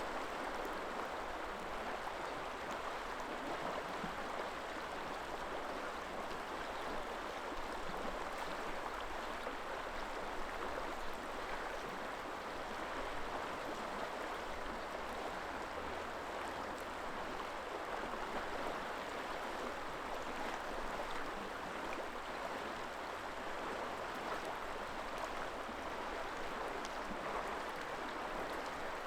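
River water flowing steadily over its bed, an even rushing sound.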